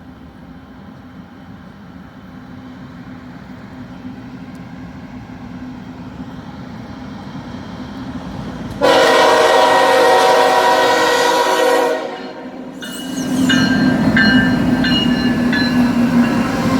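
Norfolk Southern diesel freight locomotives approaching, their engine drone growing steadily louder, then the locomotive air horn sounds one loud blast about nine seconds in, lasting about three seconds. After a brief dip the locomotives come close with a loud engine rumble and high thin tones over it.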